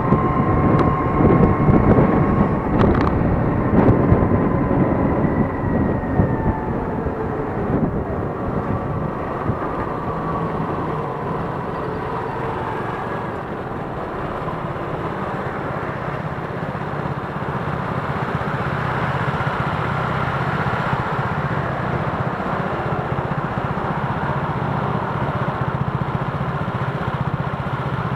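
Road and traffic noise heard from a moving electric scooter in city streets: a steady rush with the running of nearby motorcycles and cars. A thin whine falls slightly in pitch over the first several seconds, and the noise is louder and more uneven at the start than later.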